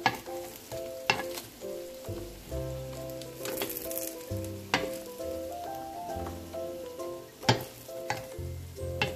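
Tofu frying in hot oil in a pan, sizzling steadily, with about six sharp clicks of metal tongs against the pan as pieces are lifted. Background music with a melody and bass line plays underneath.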